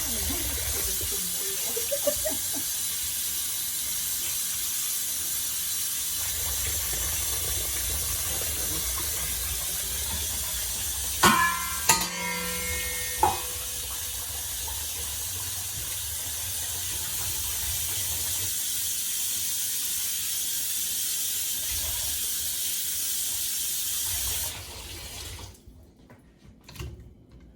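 Kitchen tap running into a sink as ears of corn are rinsed: a steady hiss of water that shuts off about 24 seconds in. A few sharp knocks with a short ringing midway, as of corn or a pot hitting the sink.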